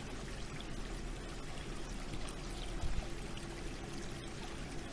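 Water running and pouring steadily, like a trickling water feature, with a faint low hum underneath.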